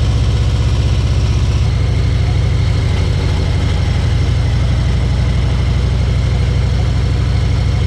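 Harley-Davidson Ultra Limited's V-twin engine running steadily at low revs, with an even low pulsing beat; its tone shifts slightly about two seconds in.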